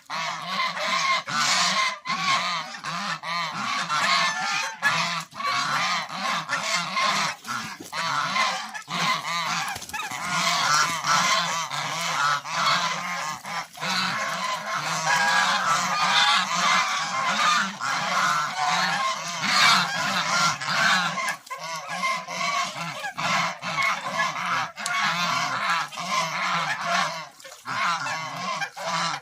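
A flock of domestic geese honking continuously, many calls overlapping.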